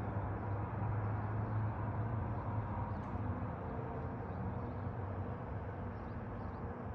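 A steady low mechanical hum, strongest in the first couple of seconds and then easing slightly.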